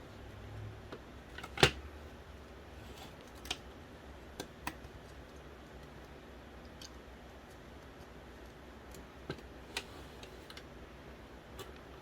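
Scattered sharp clicks and taps of small plastic and metal parts of an original Xbox's Philips DVD drive being handled during teardown work, the loudest about a second and a half in, over a faint low hum.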